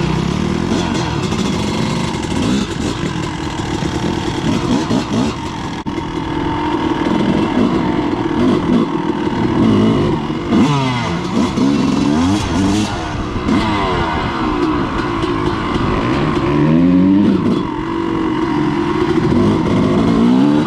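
Several dirt bike engines running together, revved again and again so that their pitches rise, fall and cross over one another.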